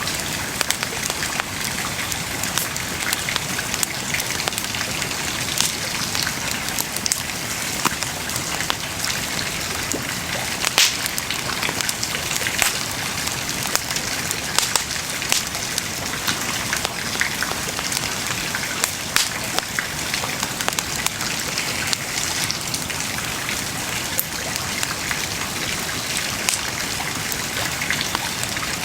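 Wood bonfire burning: a steady hiss with frequent irregular crackles and sharp pops.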